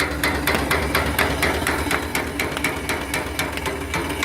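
Small mechanical boiler feed pump, driven off the steam engine's eccentric, knocking evenly about four times a second with each stroke as it pumps water into the boiler, over the low steady running of the engine.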